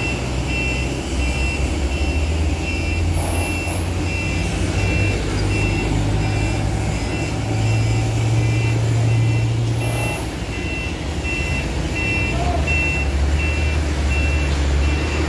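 A heavy diesel truck, likely the concrete mixer truck, running with its reversing alarm sounding a steady series of short, evenly spaced beeps over the low engine drone.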